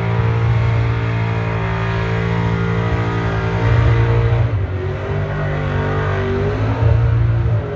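Supercharged engine of a Ford XE panel van held at high revs during a burnout, running steadily with louder surges in revs about four seconds in and again near the end.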